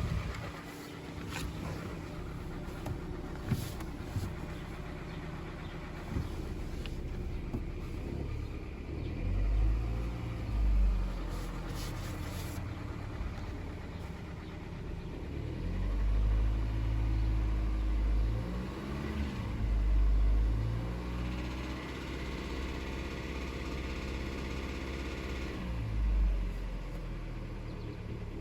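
2011 Kia Forte's engine idling and being revved several times, with a tapping sound in it that the owner wonders is piston slap or lifter tick.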